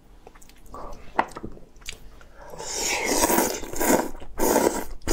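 A person eating crab close to the microphone. There are a few small clicks at first, then from about halfway a run of loud, noisy chewing and mouth sounds.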